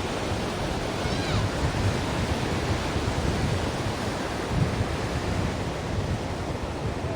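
Ocean surf: a steady, dense wash of breaking waves with gentle swells. There is a faint short high chirp about a second in.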